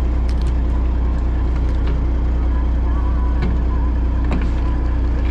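Fishing boat's engine running with a steady low drone, with a few light clicks and knocks on top.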